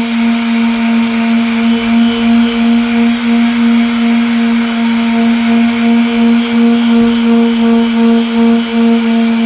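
Electric sander running steadily against a headlight lens: a constant motor hum over a sanding hiss, wavering slightly in loudness.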